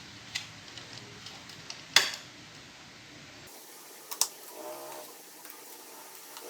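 Small clicks and knocks of a motorbike's plastic body panels and a headlight clamp bracket being handled and fitted, with one sharp click about two seconds in and a couple more a little after four seconds.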